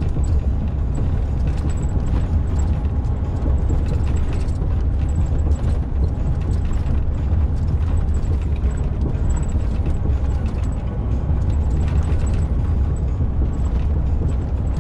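Truck cab interior at road speed: a steady low rumble of engine and tyres on a rough, worn old motorway surface, with irregular rattles and knocks from the cab and truck shaking over the bumps.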